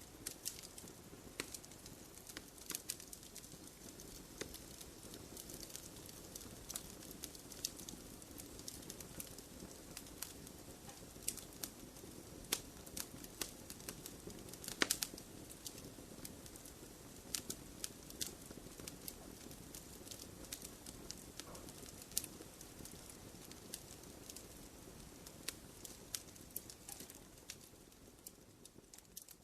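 Wood fire crackling in a fireplace: irregular sharp pops and snaps over a soft steady hiss, with one louder pop about halfway through, fading out near the end.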